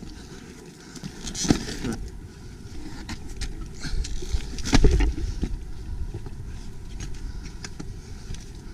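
Tyres rolling over loose rock rubble on a rocky trail: a steady low rumble, with louder crunching and scraping knocks about a second and a half in and again near five seconds.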